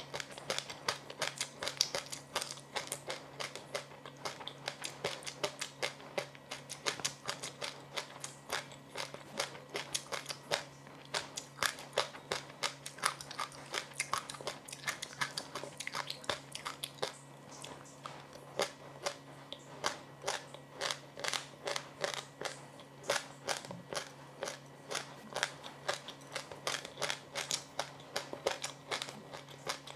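A person chewing crunchy food close to the microphone, with rapid, crisp crunches several times a second throughout. A steady low hum runs underneath.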